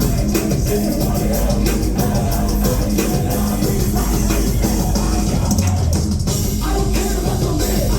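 Loud live music over a concert sound system, with heavy bass and drums.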